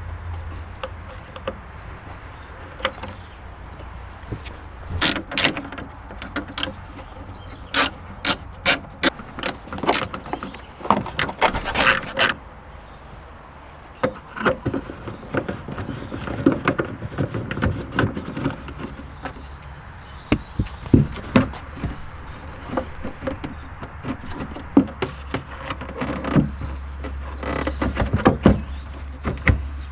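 Hand work on car parts: a string of sharp clicks, taps and knocks, thickest in a quick run from about five to twelve seconds in, with a low steady hum at the start and again near the end.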